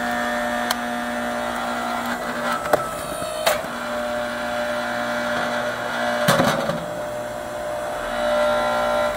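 Log splitter's motor running steadily, its tone dropping out twice as it takes the load. Sharp cracks of dry logs splitting come about three seconds in and again about six seconds in.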